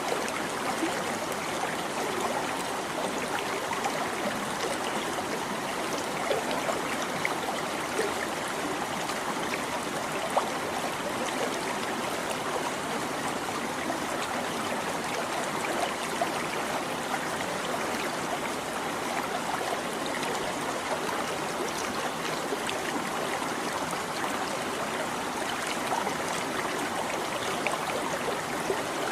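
Stream babbling and trickling steadily over stones, with small splashes and gurgles scattered through.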